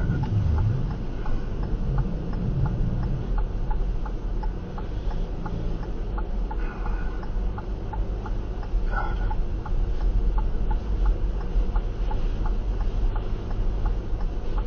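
Car hazard-light flasher ticking evenly, about two ticks a second, over a steady low rumble inside the stopped car.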